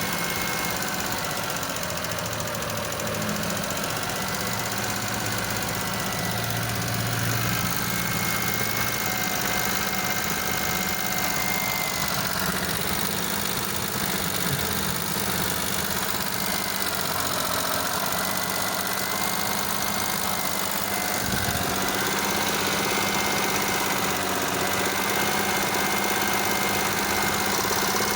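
Suzuki F6A 12-valve three-cylinder engine running steadily at idle.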